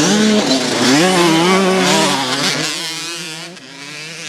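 Motocross bike engines revving hard, their pitch rising and falling with the throttle as the bikes go by, then fading away a little under three seconds in.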